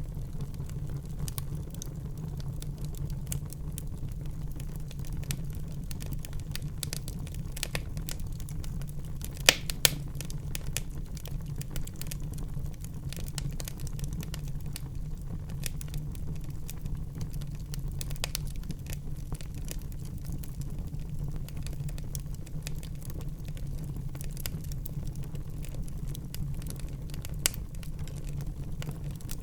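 Wood fire burning in a fireplace: a steady low rumble of flames under a constant scatter of small crackles, with two sharp pops close together about a third of the way in and another pop near the end.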